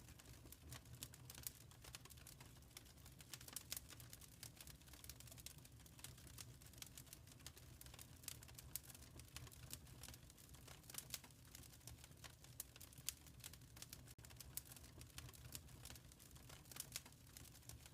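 Wood fire in a fireplace crackling faintly: frequent small, sharp pops and snaps at irregular intervals over a low, steady sound from the flames.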